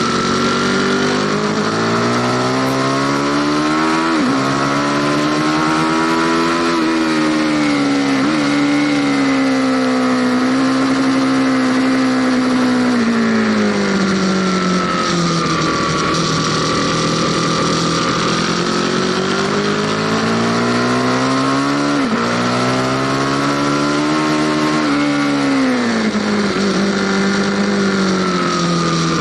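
Aprilia Tuono Factory motorcycle engine heard on board while riding. It pulls up through the revs with quick upshifts, about four seconds in and again around twenty-two seconds in. In between it holds a steady speed, then drops off as the throttle closes and the engine brakes. Steady wind rush accompanies it throughout.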